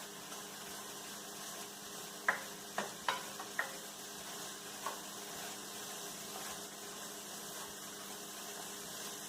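Diced onion and broccoli sizzling steadily in a hot sauté pan on high heat, the water from the frozen broccoli now cooked off. A few sharp clicks of a utensil stirring against the pan come about two to four seconds in, and one more about five seconds in.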